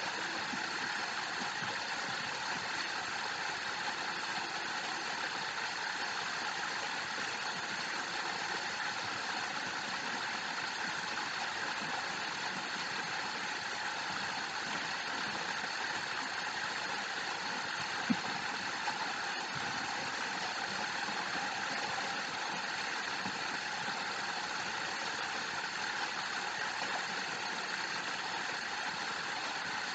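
Steady rush of water falling at a waterfall, an even, unbroken hiss, with one brief faint click about eighteen seconds in.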